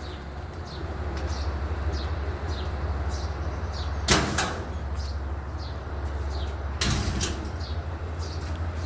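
Small birds chirping over and over, short high calls that drop in pitch, over a steady low rumble of wind on the microphone. Two brief loud rustles or knocks break in, about four seconds in and again just before seven seconds.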